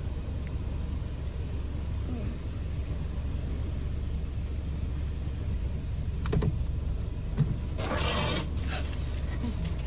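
Steady low rumble of a car idling, with a few small knocks and a brief rush of noise about eight seconds in.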